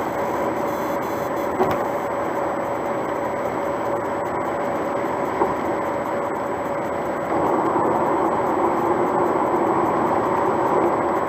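Steady road noise inside a moving car: tyre rumble and engine hum at cruising speed, growing louder about seven seconds in.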